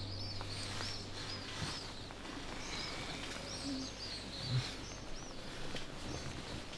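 Small birds chirping repeatedly over a faint steady room hum, with a soft low bump about halfway through.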